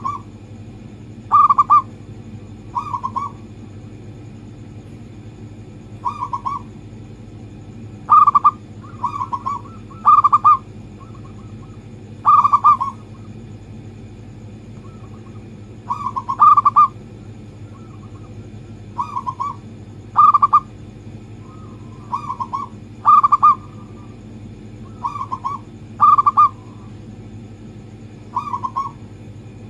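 Zebra dove (perkutut) cooing over and over, each phrase a short cluster of soft notes, repeated every second or two over a steady low hum.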